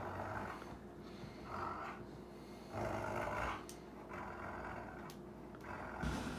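A dog breathing noisily, sniffing and snorting in several long huffs about a second apart.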